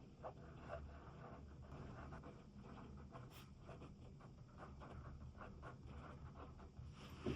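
Pen writing on paper: a faint, steady run of short, irregular scratching strokes, with a louder click at the very end.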